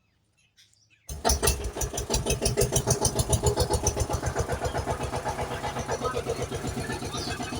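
A tractor engine starts about a second in and runs with a rapid, even chugging beat.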